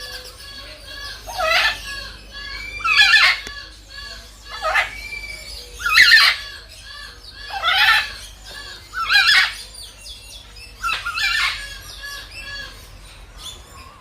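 Indian peafowl calling: about eight loud calls, one roughly every one and a half seconds, over steady fast chirping of smaller birds.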